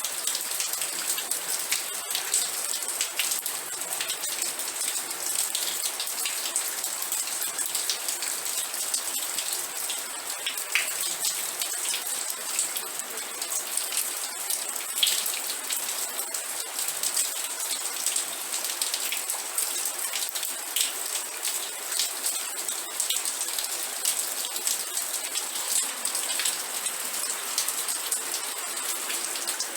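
Steady rain falling, with close individual drops pattering on a surface.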